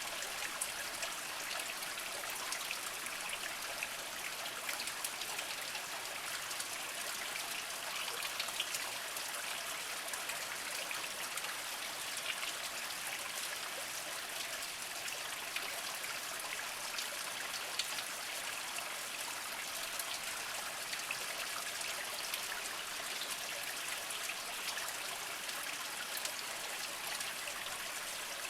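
Small spring trickling over mossy rocks: a steady babble with fine splashing drips, bright rather than deep.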